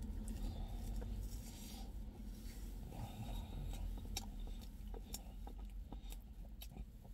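A man chewing a mouthful of pizza close to the microphone: scattered small wet clicks and crackles of the crust, over a low steady hum.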